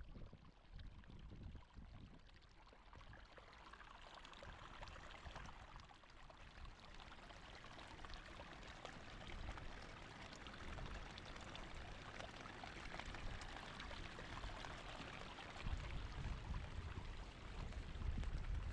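Steady rush of water, as from heavy rain and a running flood stream, hissing evenly and growing slightly louder. A low rumble joins it near the end.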